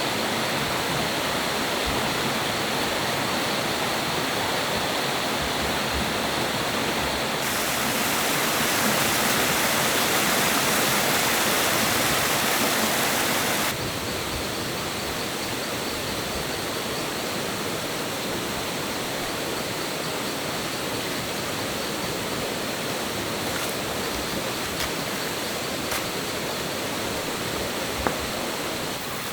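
Rushing water of a jungle stream, a steady flowing noise. It turns abruptly louder and hissier about seven seconds in and drops back just as suddenly about fourteen seconds in.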